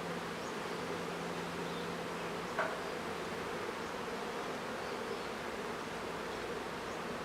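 Honeybee colony buzzing steadily in a dense, even hum. A single sharp click about two and a half seconds in.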